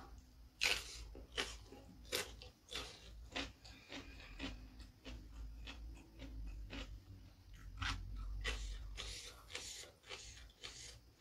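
Raw cucumber being bitten and chewed, with crisp wet crunches repeating throughout. A sharp bite about a second in is the loudest.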